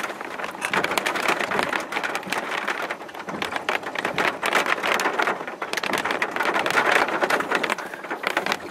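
Rain falling on a vehicle: a dense, uneven patter of quick drop ticks over a hiss of rain.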